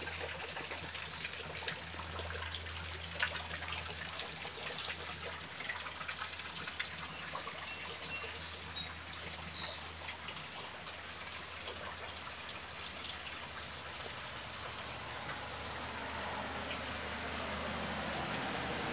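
Rain falling in a garden: a steady patter with many close drops ticking on leaves and the patio, the ticks thinning after the first half and giving way to an even hiss near the end.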